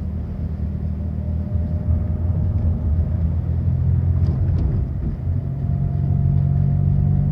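Car engine and tyre noise heard from inside the moving vehicle, a steady low hum whose pitch rises slightly in the second half as the car speeds up. A couple of faint clicks about four and a half seconds in.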